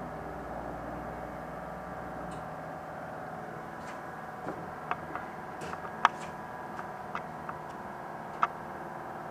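Steady electrical hum with a low rumble that stops about two and a half seconds in, then a handful of light clicks and taps, the sharpest about six seconds in and another near the end.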